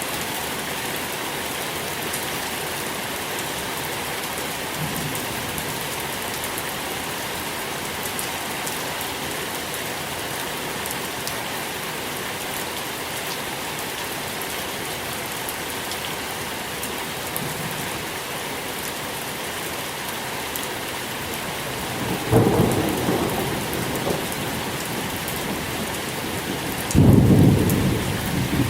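Steady rain, with two low rumbles of thunder in the last third, the second one longer.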